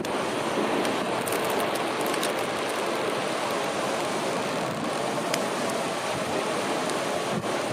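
Steady rush of a fast mountain river, an even noise with a few faint ticks.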